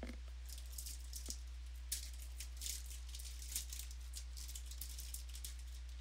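Trading cards and their packaging being handled, a run of light, irregular rustling and crinkling, over a steady low electrical hum.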